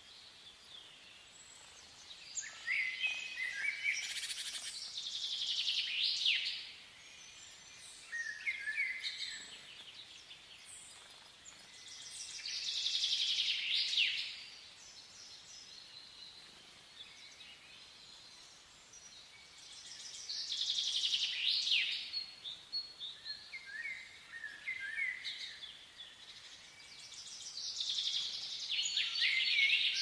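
Songbirds singing in repeated song phrases that swell and then stop, about every eight seconds, over a faint steady outdoor hiss.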